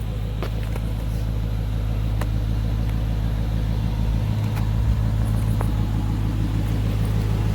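Dodge Charger R/T's 5.7-litre HEMI V8 idling, a low, steady running sound, with a few faint ticks.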